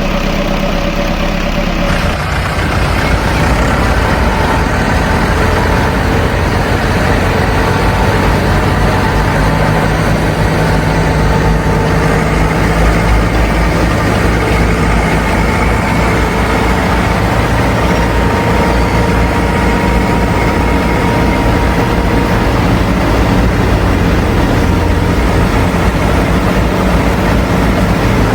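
Tractor engine running steadily at a low idle, with a change in its sound about two seconds in.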